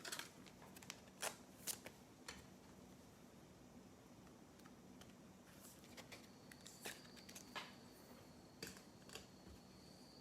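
Faint, scattered clicks and light scrapes of football trading cards being handled and slid one behind another through a freshly opened pack.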